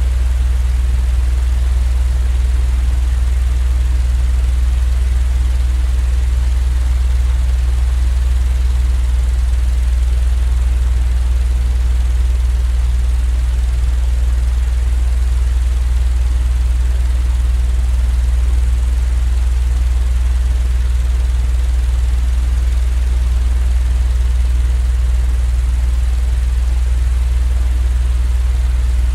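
Steady, unchanging low mechanical drone of a sleep-aid noise track, most of its energy in a deep hum with a faint hiss above it.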